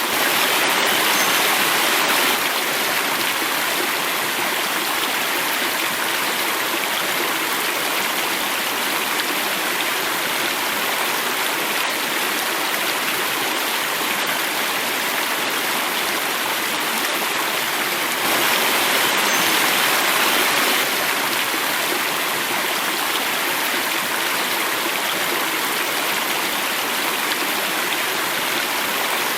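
Water flowing and falling in a stream cascade: a steady rushing splash that swells slightly louder for a couple of seconds at the start and again about two-thirds of the way through.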